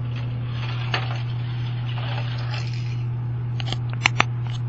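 A toy car rolling and rattling down a toy spiral track, with a few sharp clicks and clacks near the end as it reaches the bottom. A steady low hum sits under it throughout.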